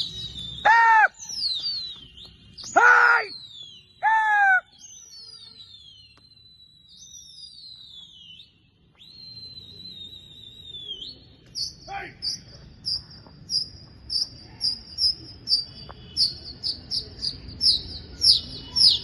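Birds chirping and whistling: long high whistles that fall in pitch through the first half, then a quick run of high chirps about two a second from the middle on. Three louder, lower pitched calls sound in the first few seconds.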